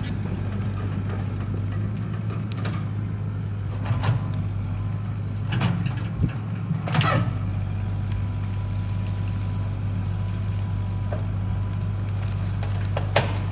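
Excavator's diesel engine running steadily while it pushes a burning log pile together, with several sharp cracks and knocks from the logs, the loudest near the end.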